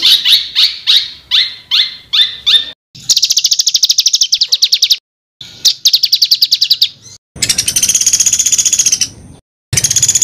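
Songbird song from a bird-song training ('masteran') recording. It opens with a quick series of short rising notes, then two rapid, even trills of repeated high notes, then harsh buzzy rattles, the 'tembakan kasar' (harsh bursts) the recording is built around. The sections are split by abrupt cut-silent gaps.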